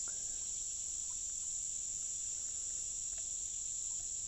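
Steady, high-pitched chorus of insects, a constant shrill drone, with a few faint ticks.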